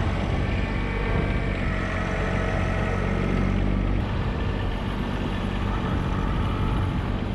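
Small John Deere subcompact tractor's engine running steadily at a constant speed.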